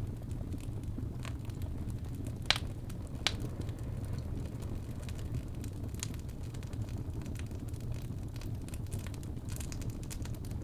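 Wood fire crackling: a steady low rumble with scattered sharp pops, the two loudest about two and a half and three seconds in, and a run of small crackles near the end.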